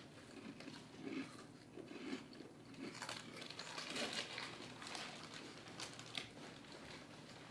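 Irregular rustling and crinkling with small clicks and crunches, busiest in the middle, as of something being handled.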